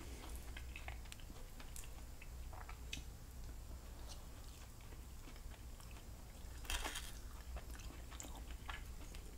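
Quiet close-up chewing and biting as a chicken and vegetable dinner is eaten, with small clicks of a wooden fork picking food off the plate. A brief, louder burst of noise about seven seconds in.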